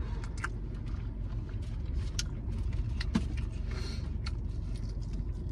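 Close-miked chewing of a crispy breaded fried chicken wing: scattered crunches and wet mouth clicks, a sharper crunch about two and three seconds in. Under it runs the steady low hum of the idling car.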